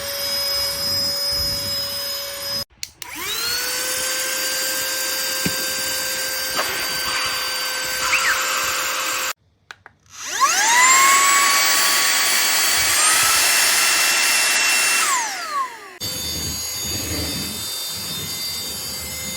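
Cordless stick vacuum cleaner motor starting with a rising whine and running steadily, then stopping. It starts again at a higher pitch, steps up in pitch once more, and winds down with a falling whine.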